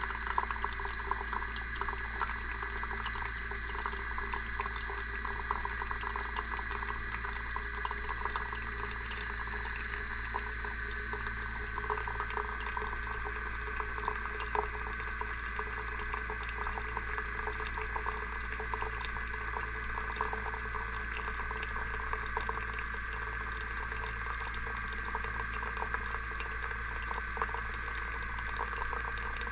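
GEVI pour-over coffee machine's pump running steadily, pushing hot water out so that it splashes and drips continuously into the vessel below, over a low steady hum.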